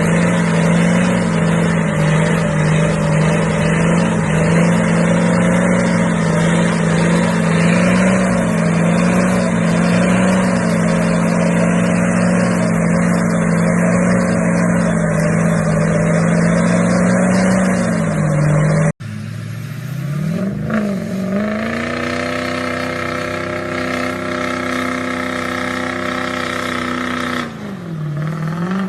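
Old truck engine running at a steady high speed. About two-thirds of the way through it cuts to another engine that revs up, holds high for several seconds, then drops back near the end.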